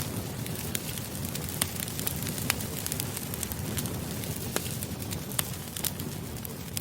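Bonfire crackling: a steady low rush of burning with sharp pops at irregular intervals, about one a second.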